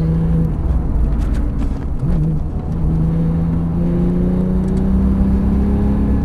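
Porsche 911 GT3 RS flat-six engine heard from inside the cabin at track speed. The engine note falls away about half a second in as the car slows for a corner, gives a short blip around two seconds, then pulls again with the revs climbing slowly.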